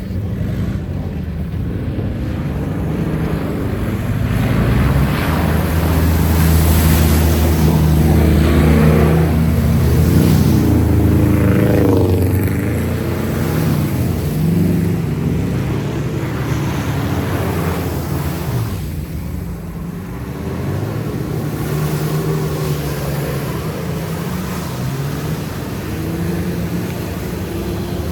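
Off-road jeep engine running and revving, its pitch rising and falling as it works. It is loudest in the first half, eases near two-thirds of the way through, then picks up again.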